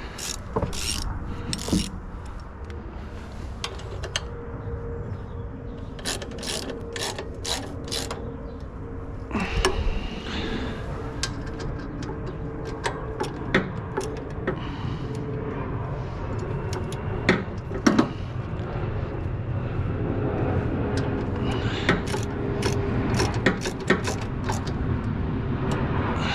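Ratcheting and metal hand tools clicking and clinking at an irregular pace, over a faint steady hum.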